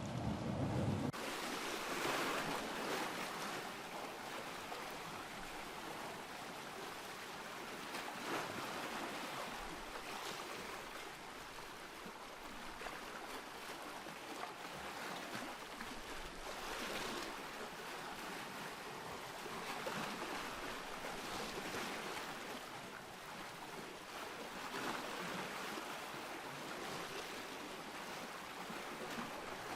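Ocean surf: a steady hiss of waves washing in, swelling every few seconds as each wave breaks. A deeper low rumble cuts off about a second in.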